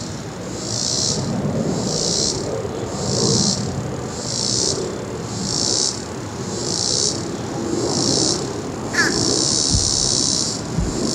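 Insects buzzing in pulses, about one a second, over the low, distant rumble of a jet airliner taking off. A brief rising chirp comes near the end, with two short low thumps.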